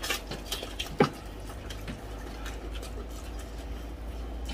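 Close-up eating sounds of crispy pata (deep-fried pork knuckle) being chewed and gnawed off the bone by hand: wet chewing and small crackles and clicks, with one louder sharp click about a second in.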